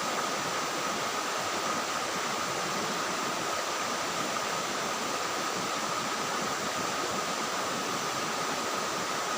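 Waterfall and river water rushing in a steady hiss, with cicadas droning one steady high note over it. Their calling marks the start of the dry season.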